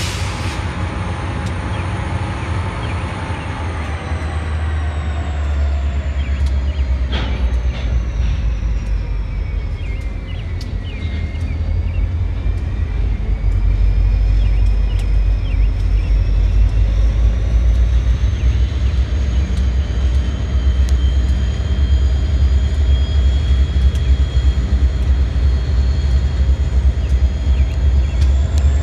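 Slow-moving freight train passing close by: a deep, steady rumble of diesel locomotives and then of hopper cars rolling on the rails. Thin, high-pitched squeals waver in pitch throughout, typical of steel wheels or brake shoes on a train slowing to a stop. The rumble grows louder about halfway through as the cars pass.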